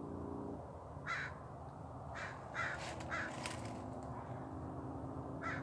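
Faint bird calls: short calls repeated at irregular intervals, several close together near the middle, over a faint steady hum.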